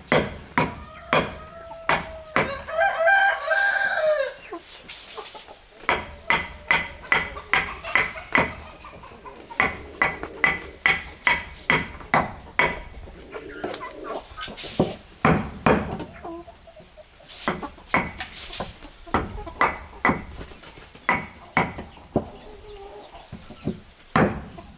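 Repeated blows of a tool striking wood, about two to three a second, with a rooster crowing once a couple of seconds in.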